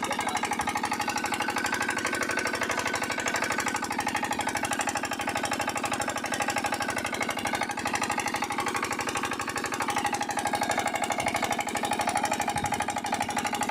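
Field Marshal 8 HP single-cylinder diesel engine of an irrigation pumping set running at a steady speed, its exhaust beating in a fast, even rhythm.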